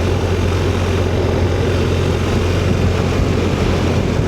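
Motorcycle under way at a steady speed: a constant engine drone mixed with road and wind noise, heard from the rider's seat.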